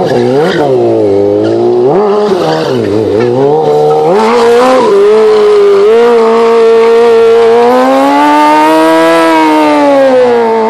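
Motorcycle engine revved hard several times, then held at high rpm with the pitch swelling slowly and falling back, during a burnout with tyre squeal.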